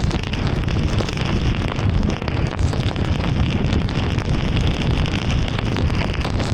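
A car driving through heavy rain: a steady rush of rain and wet-road tyre noise over a low rumble, with many small ticks of drops striking.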